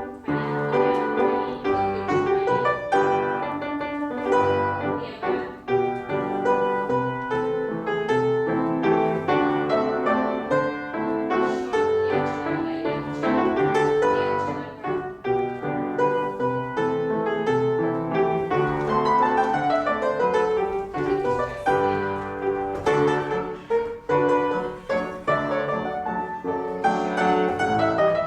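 Piano playing classical-style accompaniment for a ballet class exercise, steady chords and melody with a quick descending run about two-thirds of the way through.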